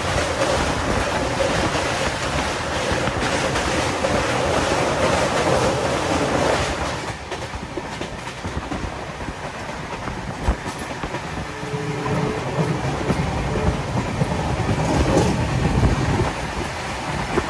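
A passenger train running on the rails, with steady wheel-and-track noise. It is louder for the first seven seconds or so, then quieter, with a single sharp click about ten seconds in.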